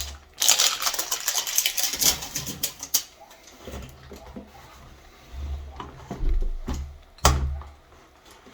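Plastic crackling and clicking as the plastic body and protective wrap of a cordless floor washer are handled, dense for the first few seconds. Low thumps and a sharp knock follow near the end.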